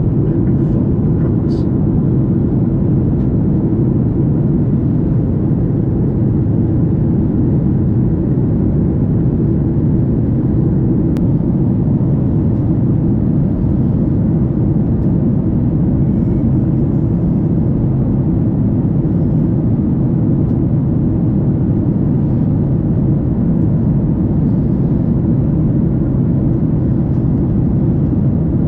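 Steady low drone inside the cabin of a Boeing 737 MAX 8 in flight: its CFM LEAP-1B engines and the airflow over the fuselage, even and unchanging.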